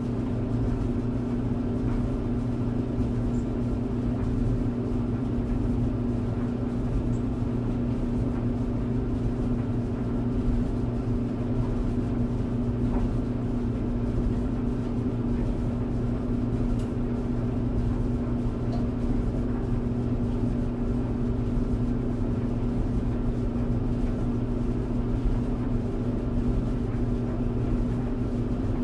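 Tumble dryer running: a steady, unchanging low hum and whir.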